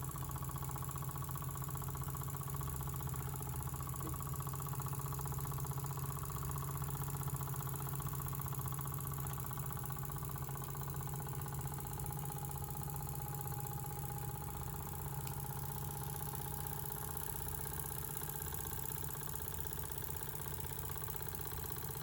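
Small Jensen #35 live steam engine running steadily under steam.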